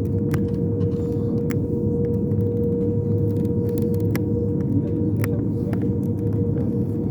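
Airliner cabin noise in the climb after take-off: a steady rumble of the jet engines and rushing air with a constant droning hum, and scattered light clicks and rattles.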